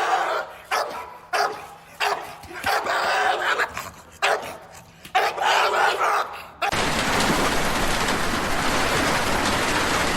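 A dog barking over and over, a bark every second or less, for about six seconds. Then it cuts off suddenly into a steady rushing noise.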